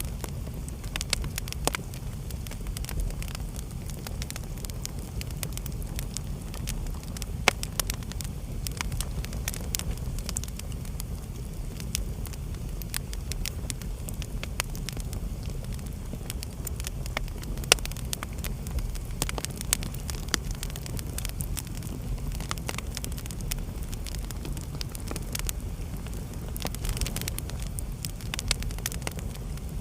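Wood fire burning in a fireplace: a steady low rumble of the flames with frequent sharp crackles and pops, a few louder snaps about 7 and 18 seconds in and a flurry of pops near the end.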